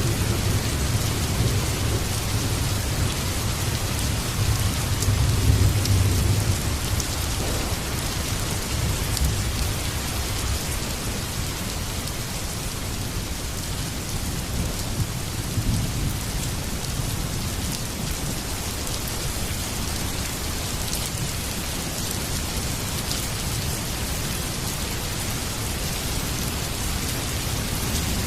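Heavy rain falling steadily on surfaces, with a low rolling thunder rumble that swells about five seconds in and fades within a few seconds.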